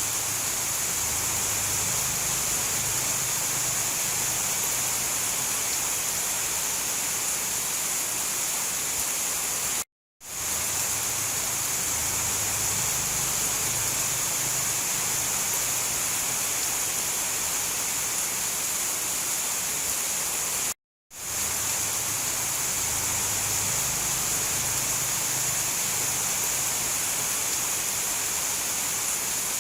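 Steady heavy rain falling in a tropical rainforest, an even hiss of water. The rain cuts out to silence for a moment twice, about 10 and 21 seconds in, and fades straight back in.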